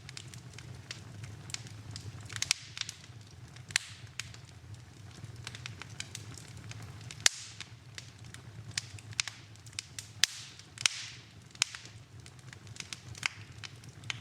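Wood fire burning in a fireplace: irregular sharp crackles and pops, a few louder snaps, over a low steady rumble of flames, with brief hisses after some pops.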